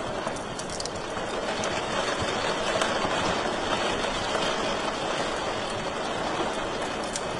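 Wood fire in a fireplace crackling: a steady rushing hiss with a few sharp pops and snaps scattered through it.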